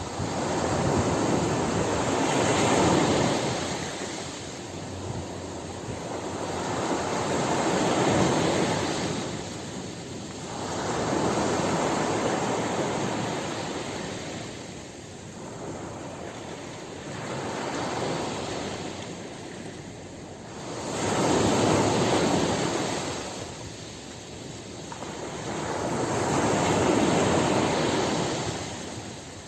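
Ocean waves breaking and washing on a shore, rising and falling in a slow rhythm of about one wave every five seconds.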